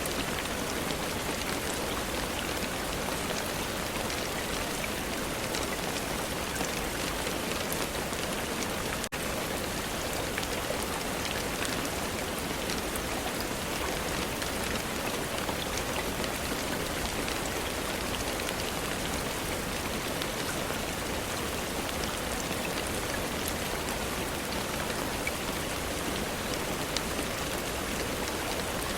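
Steady rain falling: an even hiss with scattered drops pattering. It dips very briefly about nine seconds in.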